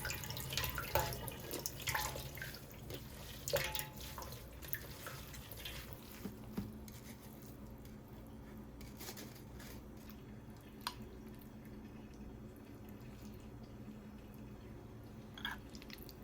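Water dripping in a kitchen, with light clicks and knocks. They come thickly for the first few seconds and then only now and then, over a faint steady hum.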